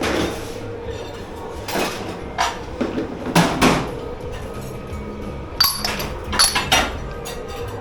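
Knocks and clatters of dishes, pots and trays being handled and set down at a dish pit, in irregular bunches, over music and a steady hum.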